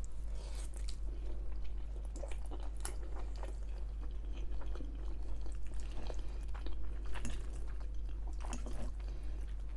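Close-miked chewing of chicken Alfredo pasta, with irregular wet mouth clicks and smacks.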